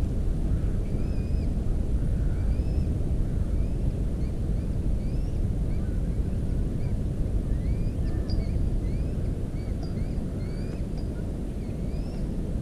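Steady low rumble throughout, with faint short chirping bird calls about once a second that come more often in the second half.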